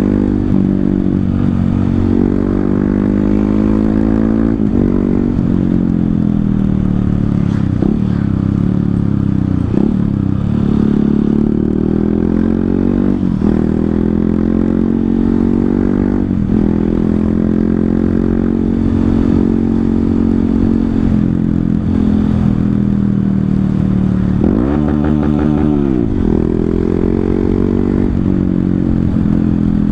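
Honda CRF150L's single-cylinder four-stroke engine running through a Tridente F19 full-system aftermarket exhaust with its honeycomb baffle ground out, under way. The exhaust note climbs in pitch and drops sharply at each gear change, several times over, with a brief deep dip in revs and a quick pickup near the end.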